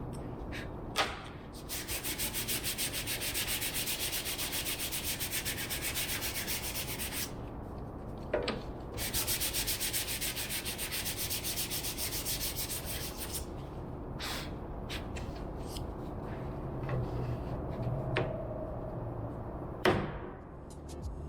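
Sandpaper sanding wood in two stretches of rapid, even back-and-forth strokes, each about five seconds long, likely readying the wooden parts for epoxy. A few sharp knocks come between the stretches and near the end.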